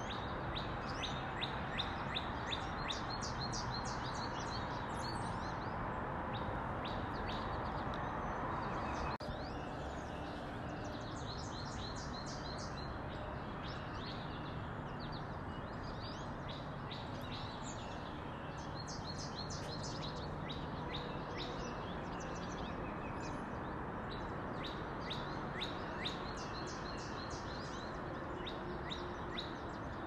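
Small songbirds chirping in quick runs of short, high notes, with pauses between the runs, over a steady background hiss.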